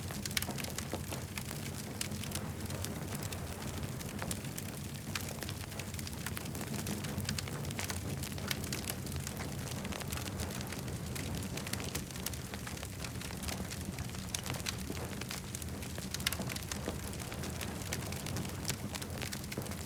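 Campfire burning and crackling: many small sharp pops and snaps over an even hiss and a steady low rumble.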